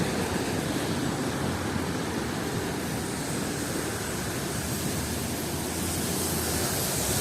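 Steady city traffic noise: an even hiss with a low rumble underneath, with no single event standing out.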